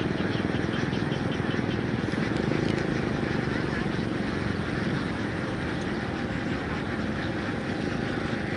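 Fiat DT 45-66 tractor's three-cylinder Iveco diesel engine running steadily.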